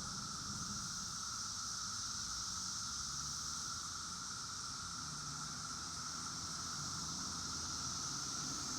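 Chorus of male 17-year periodical cicadas singing, a steady, unbroken hum.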